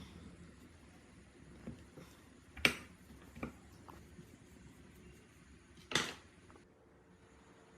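Metal parts being handled: two sharp clinks, about two and a half and six seconds in, with a few fainter taps between.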